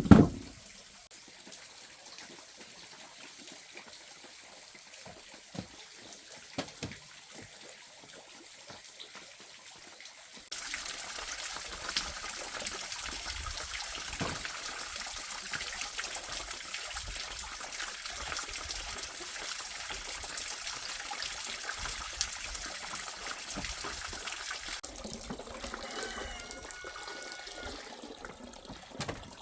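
Water running and trickling, with a sharp knock at the start; the flow becomes suddenly louder about a third of the way in and fades near the end.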